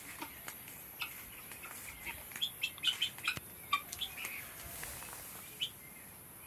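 Scattered short bird chirps and calls, bunched together in the middle, over a faint steady background.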